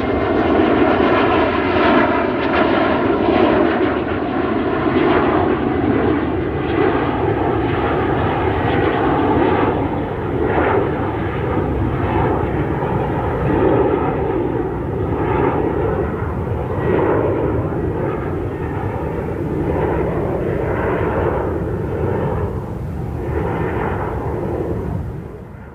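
Airplane engine running with a steady drone, fading out near the end.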